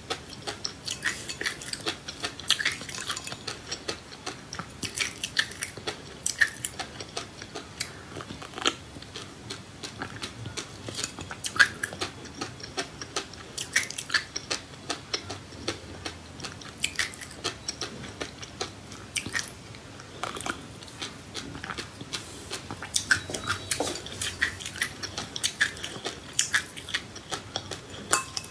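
A person chewing and biting food close to the microphone, with many irregular sharp crackling clicks and crunches.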